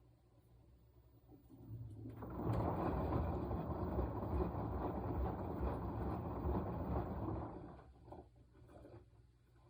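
Washing machine turning its load during the wash cycle: a churning, sloshing rumble rises about two seconds in, holds steady for about five seconds, then dies away into a pause.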